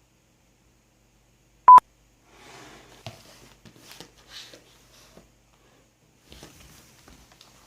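A single short, loud electronic beep about a second and a half in, followed by faint rustling and small clicks.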